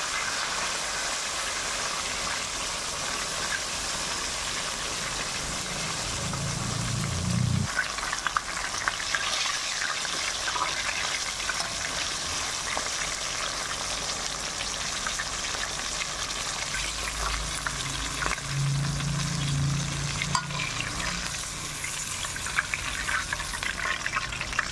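Breaded pork chops frying in hot oil in a stainless-steel wok, a steady sizzle throughout, with a few clicks of metal tongs against the pan as the chops are turned and lifted out.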